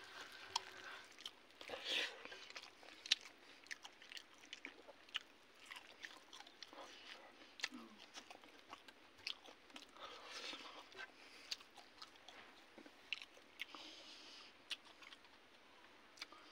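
Faint eating sounds from a person eating rice and fried fish by hand: chewing and biting, with many small clicks and crunches.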